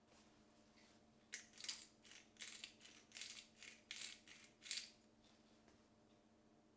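About seven short, dry rattles in quick succession over three and a half seconds, like something small being shaken or handled.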